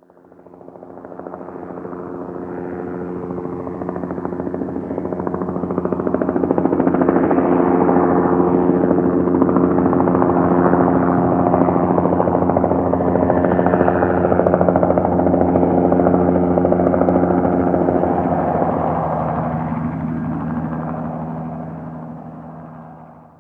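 A steady droning engine hum with a fast flutter. It fades in over several seconds, holds, and fades out near the end.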